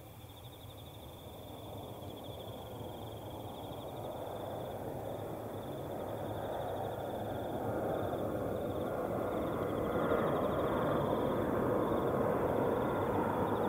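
Jet airliner approaching, its engine noise a broad rumble that grows steadily louder throughout. A steady, high chirring of insects runs underneath.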